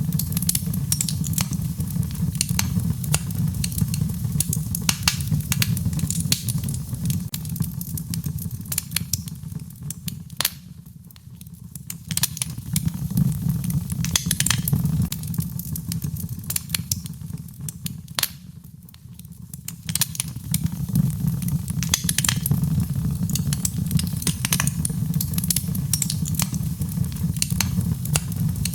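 Wood fire crackling in a fireplace: frequent sharp pops and snaps over a steady low rumble of the flames. It eases off briefly twice, about ten and eighteen seconds in.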